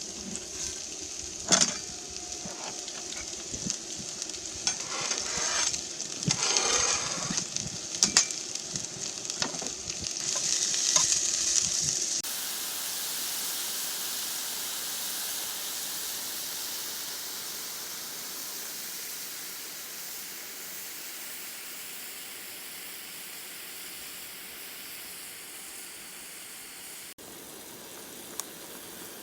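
Food sizzling in a frying pan, with utensil clicks and knocks against the pan for the first dozen seconds, then an even, steady sizzle.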